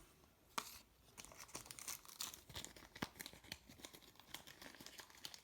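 Faint crinkling and rustling of a soft plastic card sleeve as a trading card is slid into it, a scattered run of small scratchy clicks.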